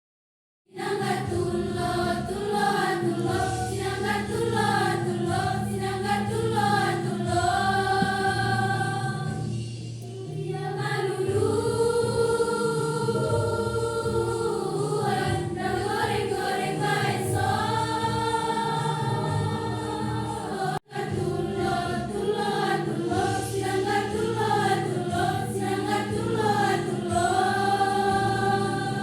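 A choir singing in several parts, with long held chords and moving lines. The singing starts about a second in and breaks off for an instant about two-thirds of the way through.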